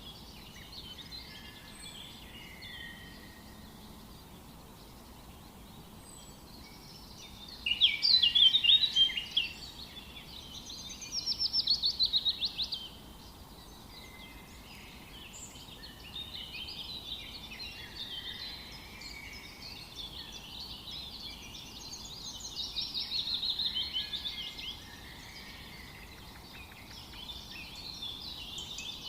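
Several wild birds singing in a forest over a steady background hush. The loudest burst of song comes about eight seconds in, and quick, evenly pulsed trills come around twelve and twenty-three seconds, with overlapping chirps in between.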